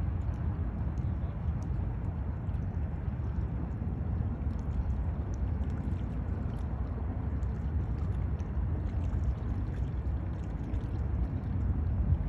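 Steady low wind rumble on the microphone with water sloshing and lapping, and faint scattered ticks.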